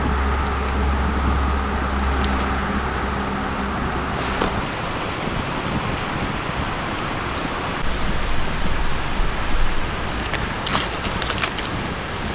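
A low, steady engine-like hum that cuts off about four and a half seconds in, followed by a steady hiss with scattered small snaps near the end.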